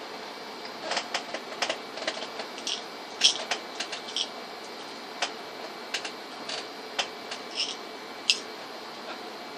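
Irregular sharp clicks and taps of tools and laptop case parts being handled during a laptop hinge repair, over a steady hiss.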